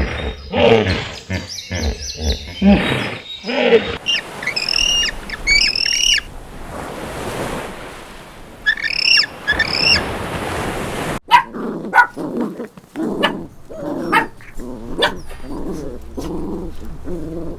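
A run of animal calls that changes abruptly partway through, including two bouts of sharp, repeated bird chirps.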